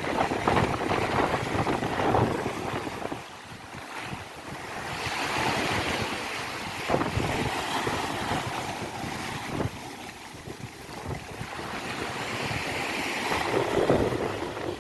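Sea waves breaking and washing up a beach, the surf swelling and easing in several surges, with wind buffeting the microphone.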